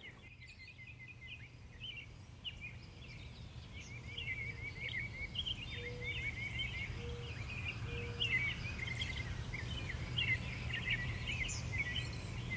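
Birds chirping and singing in rapid repeated notes over a steady low rumble, fading in over the first few seconds; a few short low notes sound near the middle.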